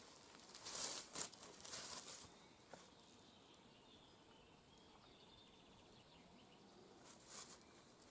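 Faint outdoor ambience: a few brief rustles in the first two seconds and again a little before the end, with faint high bird chirps in the quiet stretch between.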